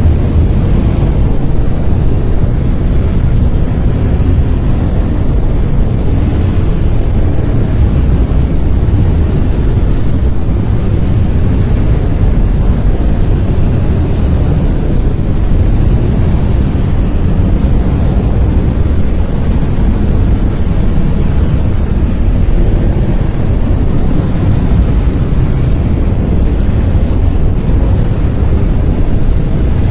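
Synthetic brown noise: a steady, deep rumbling hiss, strongest in the low end and falling off toward the highs, unchanging throughout.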